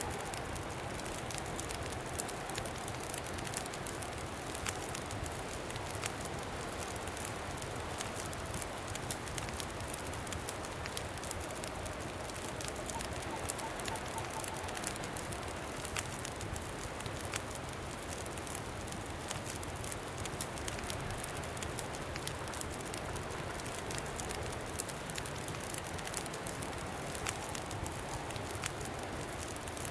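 Campfire crackling with frequent small sharp pops over a steady rush of wind.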